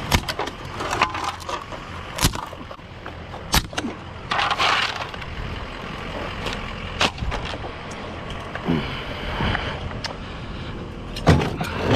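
Scattered sharp knocks and clunks with a short scrape about four seconds in: scrap ceiling fans being handled and set down.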